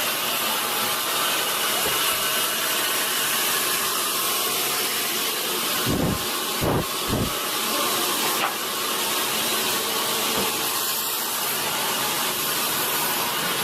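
Sawmill saw cutting through a large redwood log: a steady hiss of the blade in the wood, with three dull low thumps about six to seven seconds in.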